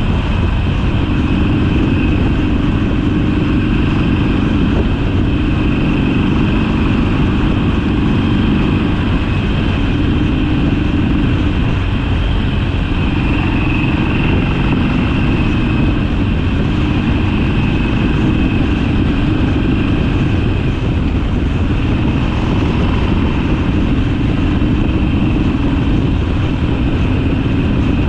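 Harley-Davidson Sportster V-twin engine running steadily under way, the level holding even with no sharp revs or drops.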